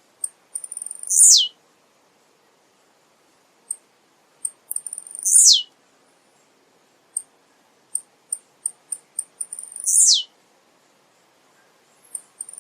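Male blue-black grassquit (tiziu) singing: a few short, high ticks, then a quick high note sweeping steeply down, repeated three times about four to five seconds apart.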